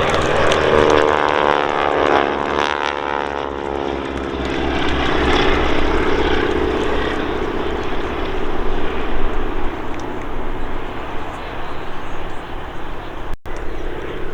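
Boeing Stearman biplane's radial engine and propeller flying past, the engine note falling in pitch as it goes by, then a steady drone.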